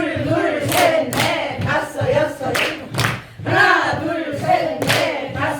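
A group of voices chanting counts in unison during a cheerleading-style drill, with sharp hits of claps or stamps, often two at a time.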